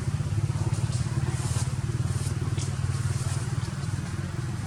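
A small engine running steadily with a fast low pulse, with a few faint ticks over it.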